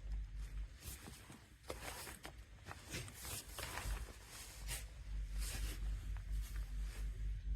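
A run of short, scratchy rustling and handling sounds, mostly in the middle, over a steady low hum.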